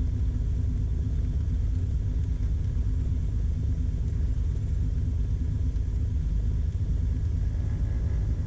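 Beechcraft Baron B55's twin six-cylinder piston engines running steadily, a constant low drone with no change in pitch.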